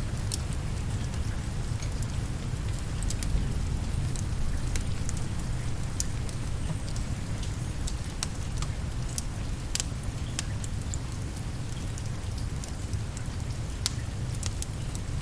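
Steady rain with scattered sharp crackles and pops from a fireplace fire, over a low rumble.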